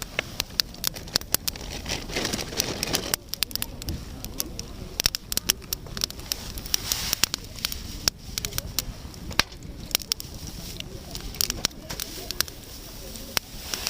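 Wood campfire crackling, with frequent sharp, irregular snaps and pops from the burning wood.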